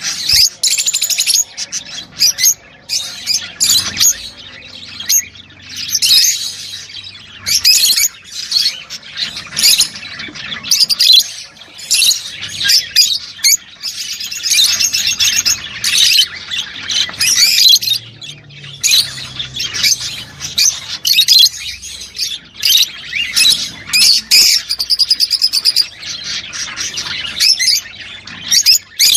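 Several lovebirds calling: rapid high chirps and shrill squawks in dense, irregular bouts with short pauses.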